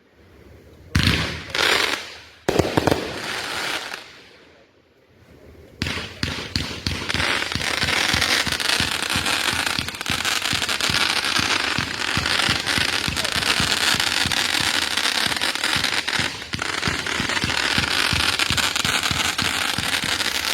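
Consumer fireworks going off: a few loud bangs about a second to three seconds in, then, from about six seconds in, a dense continuous crackling of many rapid pops.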